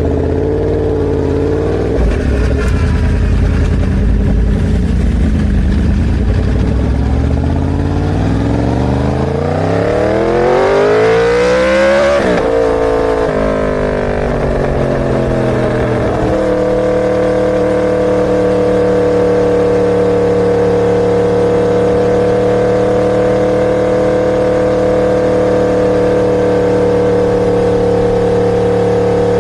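Inline-four superbike engine running at low revs, then climbing steeply in pitch for about four seconds as it revs up. It drops back sharply and, from about halfway through, holds one steady note.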